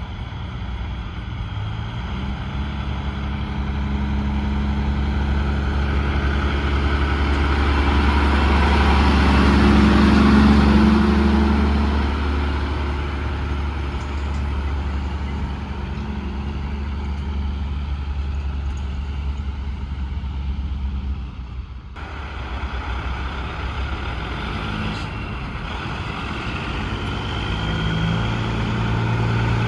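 Semi-truck diesel engine running as the truck goes by, growing loudest about ten seconds in. The sound cuts off abruptly after about twenty-two seconds, and another truck engine rises near the end.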